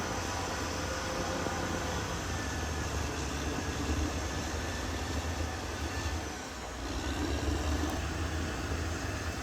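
Caterpillar D6R XL bulldozer's diesel engine running steadily under work, with a deep low rumble. It eases off briefly about two-thirds of the way through, then picks up again.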